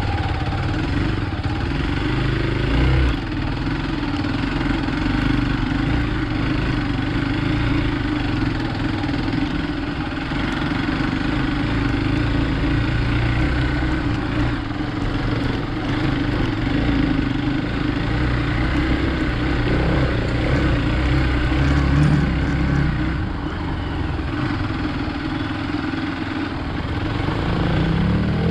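Hero Xpulse 200 motorcycle's single-cylinder engine running steadily while ridden off road, with the engine note climbing near the end.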